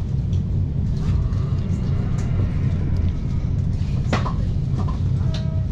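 Steady low rumble of a moving passenger train heard from inside the carriage. A short knock comes about four seconds in.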